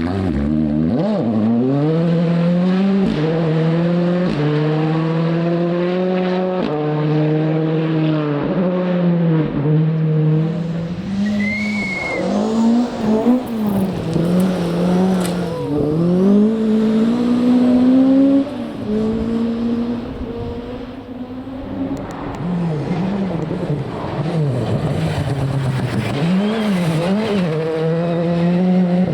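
Rally car engine running hard along a stage: it accelerates up through the gears, the pitch stepping down at each upshift, then lifts and revs up and down through corners before pulling away again. A brief high squeal partway through.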